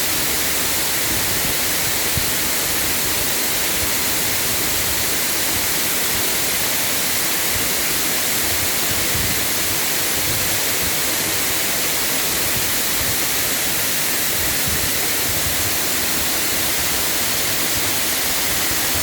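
Kanto Lampo waterfall: falling water rushing in a steady, loud, hiss-heavy roar with no let-up.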